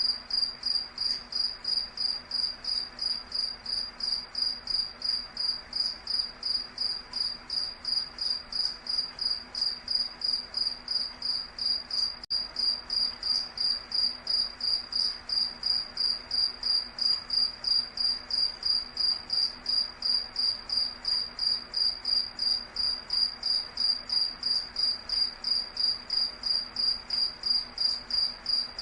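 A night insect chirping in a steady, even rhythm of about three high-pitched pulses a second, with a single faint click about twelve seconds in.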